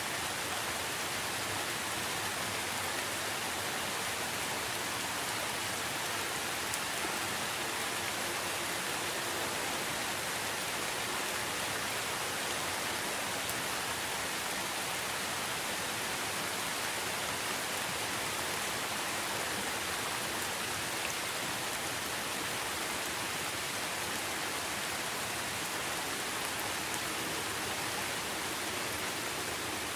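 Steady rain falling, an even hiss that holds without breaks or pauses.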